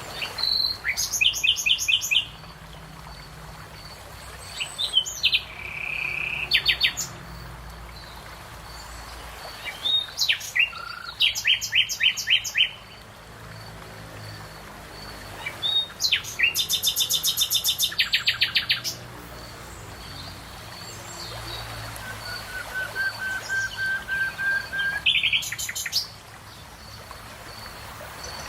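Songbirds singing: about five phrases of quick repeated high chirps and trills, each a second or two long with pauses between, and a long thin held whistle near the end.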